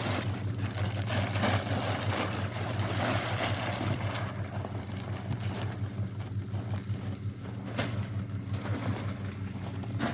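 Pickup truck engine running steadily, a low even hum.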